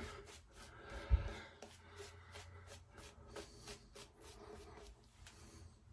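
Shaving brush being worked into shaving soap to build lather: soft irregular rubbing and clicking, with one low thump about a second in.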